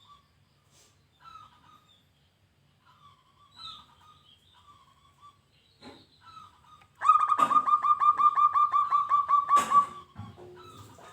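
Zebra dove (perkutut) calling: faint short calls repeat for several seconds, then about seven seconds in comes a loud, fast run of about twenty even cooing notes lasting nearly three seconds.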